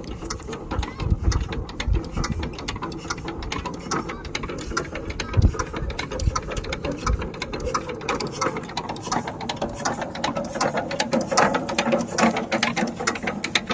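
Power tiller engine being started: fast mechanical clattering and clicking, with a few heavy low thumps in the first half, growing louder near the end.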